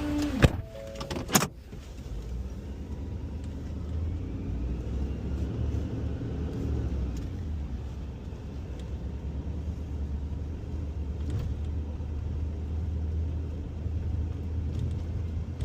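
Two sharp knocks in the first second and a half, then the engine of a small Ford F-550 rear-loader garbage truck running steadily with a low hum.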